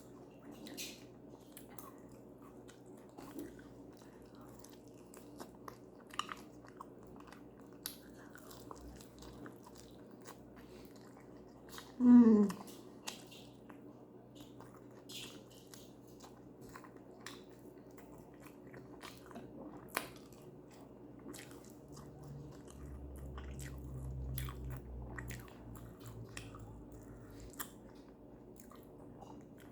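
Close-miked chewing and biting of food, with many small wet clicks and crunches. About twelve seconds in comes one short, loud hum that falls in pitch, like a pleased "mmm" from the eater.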